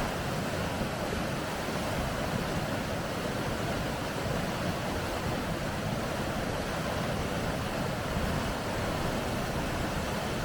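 Rapids rushing: a steady, unbroken roar of moving water, heaviest in the low range.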